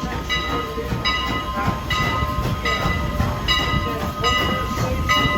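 A 113-year-old steam locomotive and its passenger train running slowly into a station, a low rumble under the locomotive's bell ringing about once every 0.8 seconds.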